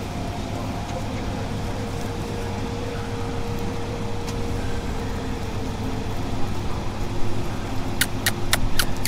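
Steady low hum of an idling motor vehicle engine. Near the end comes a quick run of four or five sharp clicks, about four a second.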